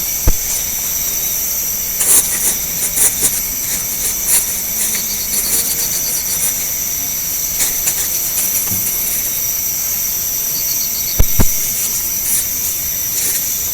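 Night insects, crickets, trilling steadily and high-pitched, with a few short pulsed chirps. Scattered clicks and knocks from handling are heard, a pair of them louder about eleven seconds in.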